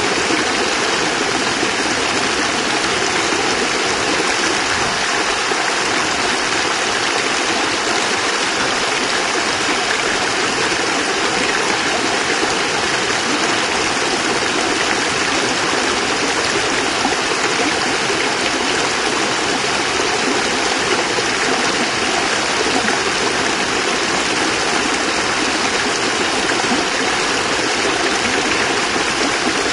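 Water pouring over a small cascade, a steady, even rushing and splashing that never lets up.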